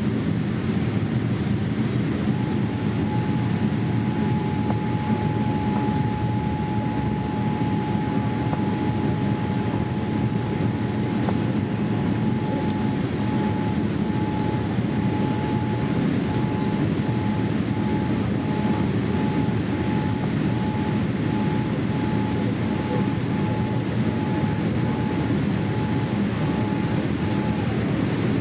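Steady low roar of a Boeing 787-8 airliner's cabin, heard from a passenger seat. A faint steady high tone sets in about two seconds in, breaks into rapid even pulses about halfway through, and stops near the end.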